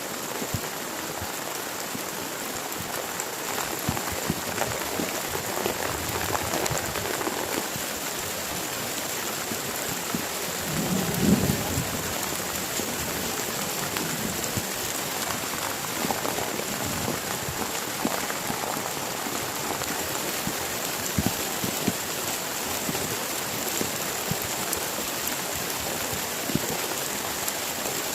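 Heavy rain falling steadily, with scattered drops ticking on nearby surfaces and a short low rumble about eleven seconds in.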